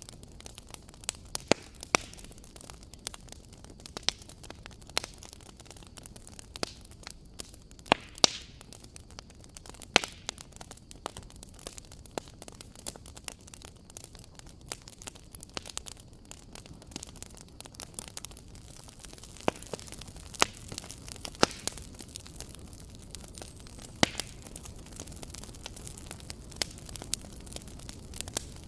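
Wood fire crackling and popping in a fireplace: irregular sharp pops, a few each second, over a low steady hiss.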